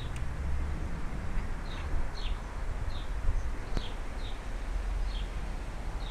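A garden bird calling with short, high, downward chirps, about two a second, starting a couple of seconds in, over a steady low background rumble.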